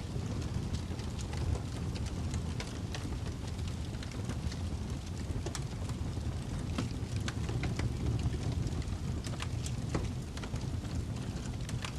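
Fireplace crackling: a steady low rumble of burning with irregular sharp pops and snaps from the wood.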